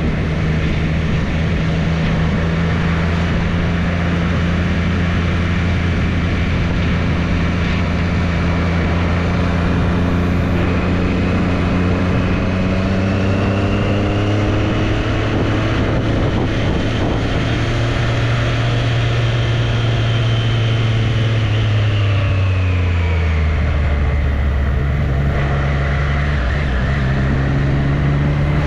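Triumph Street Triple's three-cylinder engine running while the motorcycle is ridden. The engine note climbs slowly for about ten seconds from roughly a third of the way in, drops about three-quarters of the way through, and then holds steady at a lower pitch.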